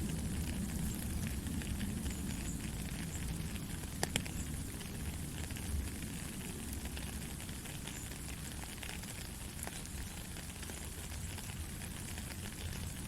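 Steady rain falling, with a low rumble underneath and scattered pattering drips, and a couple of sharper taps about four seconds in.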